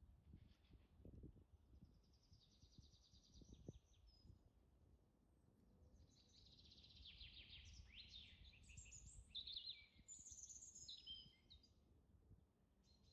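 Faint small birds chirping and trilling in several bursts, some trills sweeping downward, over a low rumble.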